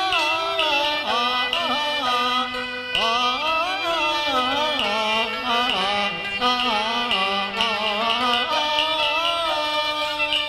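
Cantonese opera accompaniment playing an instrumental interlude between sung lines: a gliding bowed-string melody over a stepping lower line.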